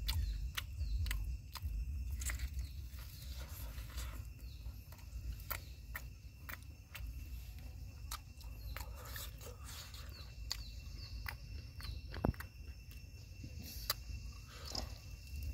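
Close-up chewing and biting of grilled stuffed pork tripe: wet mouth clicks and smacks scattered throughout, one sharper click a little past the middle. Insects trill steadily behind it over a low rumble.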